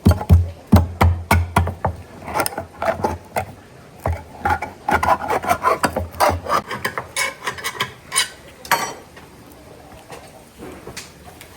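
Kitchen clatter: a quick run of knocks on wood with some scraping, heaviest in the first two seconds, then a busier rattle that dies away near the end.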